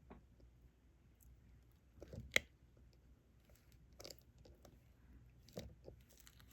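Soft taps and clicks of a diamond-painting pen picking up resin drills and pressing them onto the sticky canvas, a few scattered strokes with the loudest about two seconds in.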